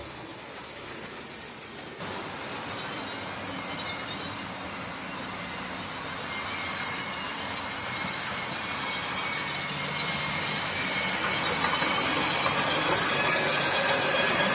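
OO gauge model train, a Class 25 diesel locomotive with open wagons, running along the track and growing steadily louder as it approaches, with a high whine building near the end.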